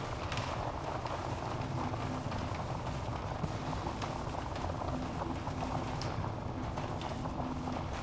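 Wood fire burning in a fireplace: a steady low rumble of flames under constant small crackles and pops, with a few louder snaps scattered through it.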